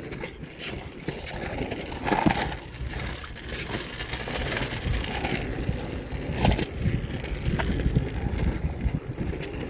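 Bicycle being ridden: tyres rolling with a steady low rumble, and scattered rattles and clicks from the bike.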